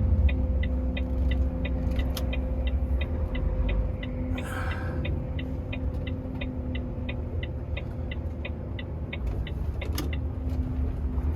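Turn-signal indicator ticking steadily, about three clicks a second, in a truck cab over the steady drone of the diesel engine, while the truck makes a right turn. The ticking stops near the end, and a brief hiss comes about four and a half seconds in.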